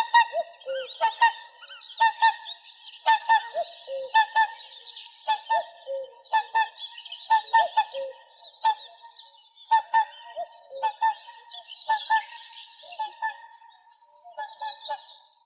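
Whooper swans calling: a run of short, pitched trumpeting honks, repeated about once or twice a second.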